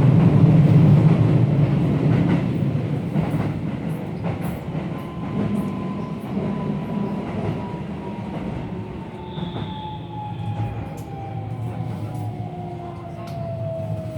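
Keihan 3000 series electric train running, its Toyo IGBT VVVF inverter whining in a steady downward glide while the track rumble fades, as the train slows on the approach to a station. Scattered sharp clicks sound over the rumble.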